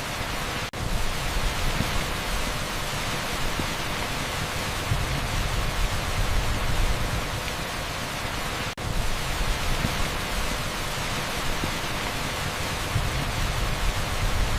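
Torrential rain pouring onto an asphalt street: a dense, steady hiss with heavy low rumble. It drops out for an instant twice, about a second in and near nine seconds.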